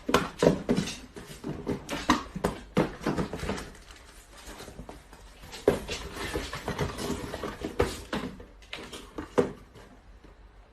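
A pet animal making short, irregular sounds, many in quick succession at first and then more sparsely.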